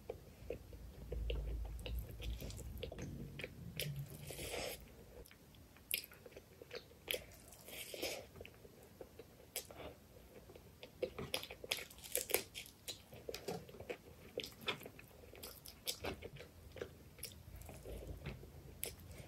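Close-miked chewing of a mouthful of rice and chicken liver curry eaten by hand, with irregular wet smacks and sharp mouth clicks.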